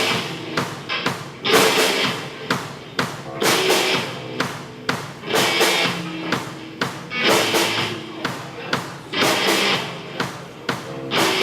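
Live band playing an instrumental passage without singing: a drum kit keeps a steady beat over the other instruments.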